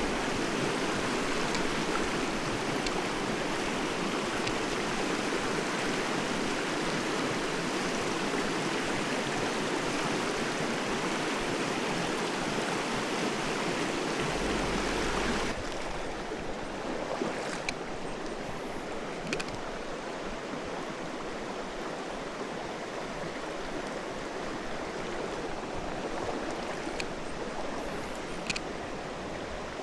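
Mountain stream rushing steadily. About halfway through, the rush changes abruptly to a quieter, duller one, with a few faint clicks after it.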